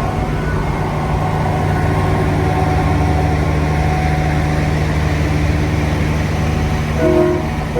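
Heavy diesel engine running steadily, then a short blast of a multi-note air horn about seven seconds in.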